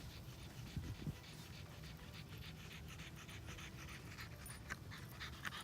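A dog panting quickly and steadily, a few short breaths a second.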